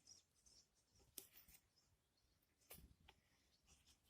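Near silence, with a few faint short ticks, one about a second in and two near three seconds in.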